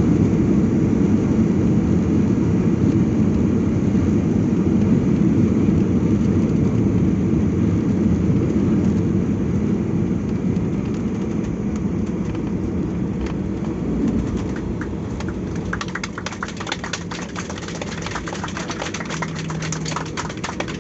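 Airliner cabin noise after landing: a steady engine and rolling rumble that slowly fades as the aircraft slows. In the last few seconds, many short clicks and rattles of cabin fittings appear on top.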